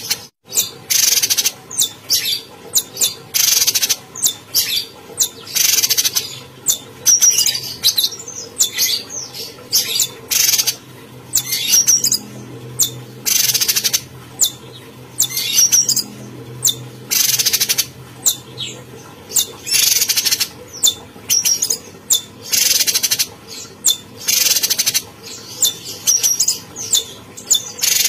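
A cucak cungkok singing in full voice, a string of short, harsh, high calls about once a second with brief chirps between them.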